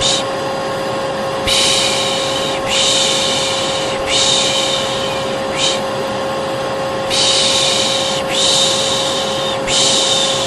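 A hair dryer runs with a steady hum and whoosh. Over it a person repeatedly shushes 'pışşş', about seven long 'shhh' sounds of roughly a second each, some in close pairs: the shushing used to calm a colicky baby.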